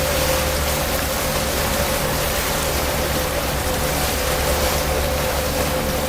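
Tour boat under way: a steady engine hum with a constant tone, under loud rushing noise of water and wind.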